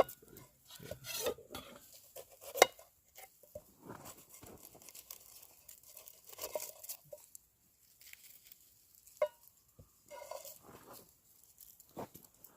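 Metal cooking utensils clinking and scraping against a pan over a campfire, with a few sharp knocks, the loudest about two and a half seconds in and again about nine seconds in.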